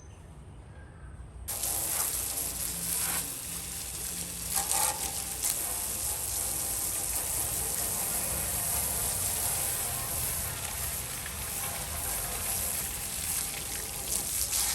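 Steady rush of running water, starting abruptly about a second and a half in.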